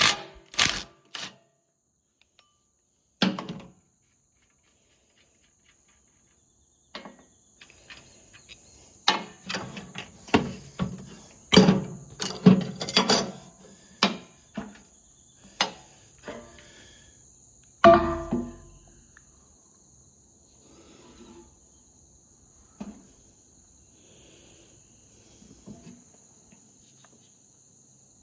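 Scattered metallic clinks and knocks of hydraulic fittings and tools being handled, with one heavy thump about two-thirds of the way through. Behind them runs a steady high cricket chirring.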